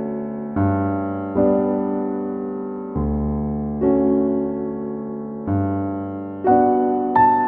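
Background music: slow piano chords, each struck and left to fade before the next, roughly one a second.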